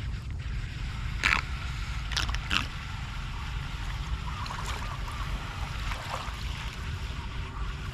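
Floodwater flowing and gurgling as it drains away over a steady low rumble, with three short sharp scrapes or knocks in the first few seconds.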